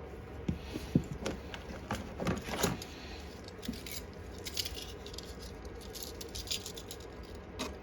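Small metal carburettor parts handled by hand during disassembly: scattered light clicks, taps and short scrapes, most of them in the first few seconds, then a few fainter ticks.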